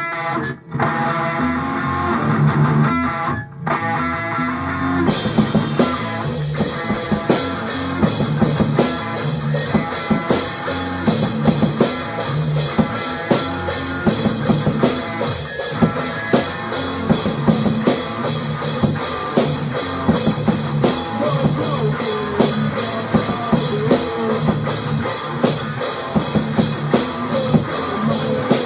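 A rock band playing a song. Guitar opens alone, and drums and the full band come in about five seconds in, then play on at a steady beat.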